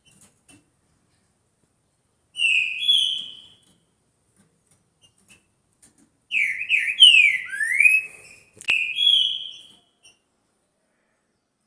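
Green-winged saltator (trinca-ferro) singing: two phrases of loud, slurred whistled notes, a short one about two seconds in and a longer one from about six seconds in. A single sharp click sounds late in the longer phrase.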